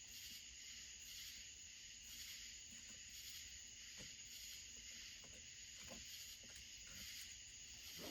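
Near silence: a steady faint high hiss, with a few faint ticks.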